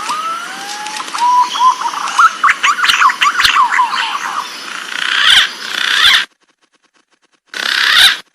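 Green pigeon (punai) call, played as a luring call: a couple of rising fluty whistles, then a quick run of wavering notes over a steady hiss. About six seconds in the sound cuts off abruptly, and one short burst of hiss follows near the end.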